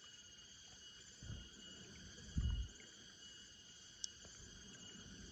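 Faint, steady chorus of insects buzzing at several high pitches, with two dull low thumps about a second and two and a half seconds in, and a brief sharp click near the end.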